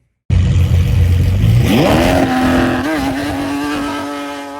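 Lamborghini engine with a loud, low exhaust rumble that revs up sharply about a second and a half in. It then holds a steady higher note while slowly fading.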